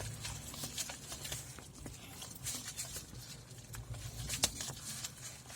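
Hands handling and picking at a parcel's packaging: irregular scratching, crinkling and small clicks.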